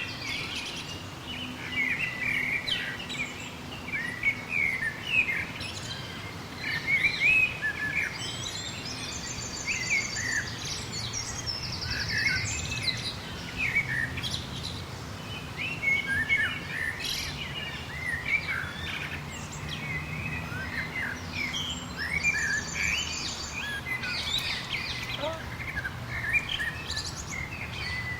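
Several small birds chirping and calling in a busy overlapping chorus of short high notes, with a rapid, high, buzzy trill twice, about a third of the way in and again later. A faint steady low hum sits underneath.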